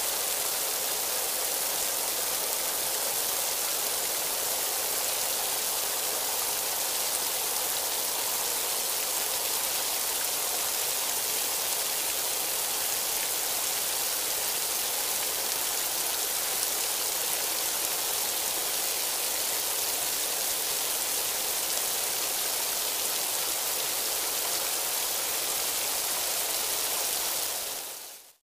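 Rain sound effect: a steady, even hiss of falling rain that fades out quickly near the end.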